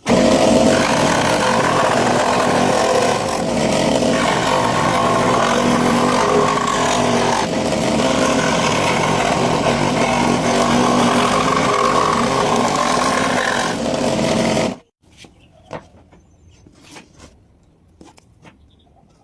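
A power tool running steadily while working wood, cutting off suddenly after about fifteen seconds, followed by faint clicks and knocks.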